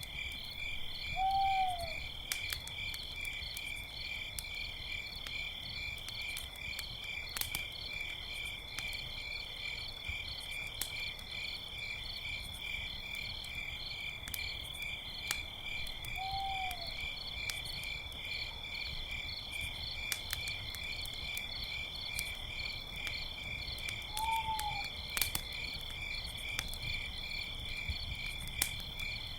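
Night ambience: a steady chorus of crickets chirring, with a campfire crackling and popping in sharp clicks. Three short arched hoots, from an owl, sound a few seconds apart, and another comes right at the end.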